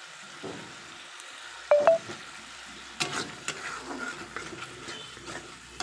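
Masala paste with fresh tomato pieces sizzling in a kadai while a metal spatula stirs and scrapes through it. A brief louder knock comes a little under two seconds in, and the scraping strokes come more often in the second half.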